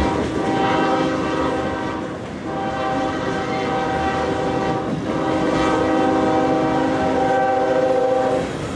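Train's multi-note horn blowing long and steady as a warning, with two brief dips before it fades out near the end.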